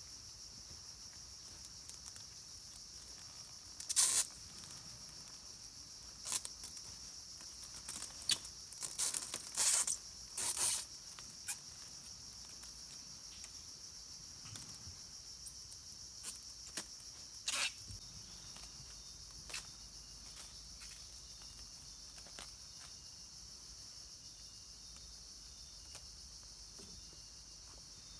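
Steady high-pitched insect chorus, with short rustling and scraping noises now and then through the first two-thirds, the loudest about four seconds in and around ten seconds in.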